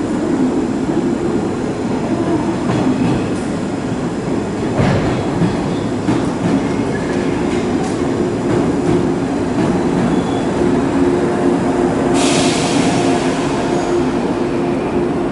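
115 series electric train arriving and rolling slowly through the station, with a steady hum and rumble of motors and wheels on the rails. A short hiss comes about twelve seconds in.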